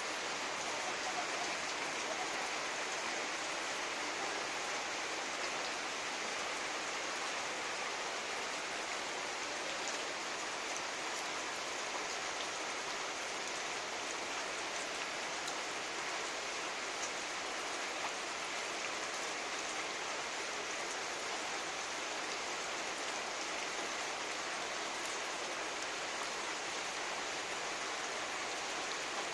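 Pouring rain falling steadily, an even, unbroken hiss.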